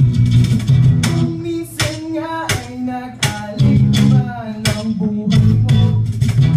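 Acoustic guitar strummed in a steady rhythm, with a singing voice coming in over it about two seconds in.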